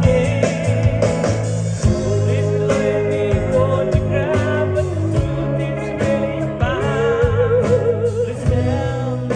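A band playing a song with a singer: a vibrato-laden vocal melody over held bass notes and regular drum hits.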